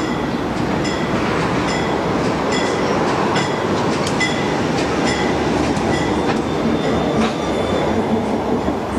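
Train rolling past with a steady rumble, and its wheels clicking at a regular beat over the rail joints, a little more than once a second.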